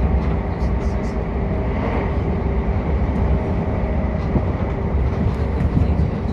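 Cabin running noise inside a Southern Class 377 Electrostar electric train at speed: a steady low rumble of wheels on rail, with a faint steady hum over it.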